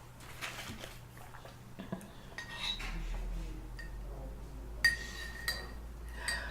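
Spoon scraping and clinking against a soup bowl while scooping up the last of the soup, with a few sharp ringing clinks in the second half, the loudest a little under five seconds in.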